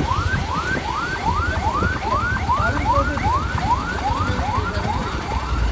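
Electronic siren yelping: short rising whoops repeating about three times a second, over a steady low rumble.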